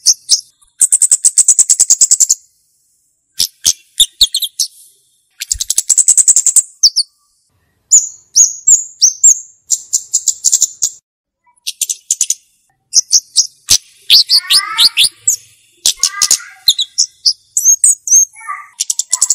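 Flowerpecker (cabe-cabean) calling: repeated rapid, high-pitched ticking trills about a second long, with short sharp slurred notes between them. A run of lower descending notes comes in around three-quarters of the way through.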